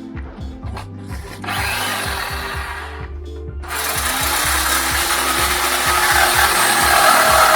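Power saw cutting through a steel exhaust pipe. It runs in a short burst, stops briefly, then starts again about halfway through and cuts steadily, growing louder.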